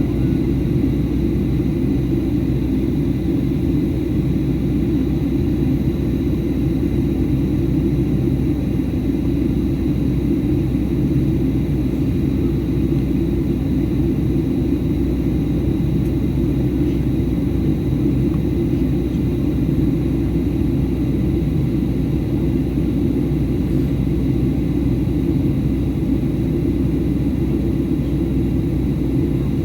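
Steady low rumble of a Boeing 737-800 airliner cabin in flight, from engine and airflow noise, with a faint steady high whine above it.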